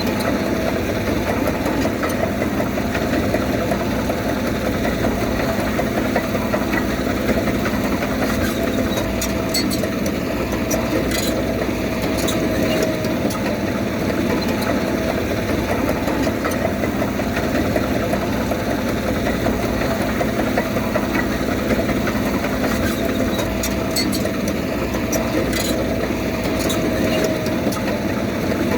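Diesel engine of heavy earthmoving machinery running steadily, with a few light metallic clinks.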